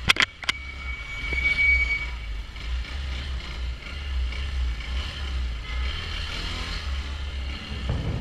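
Motorcycle running steadily through traffic: a low, even engine rumble with street noise around it.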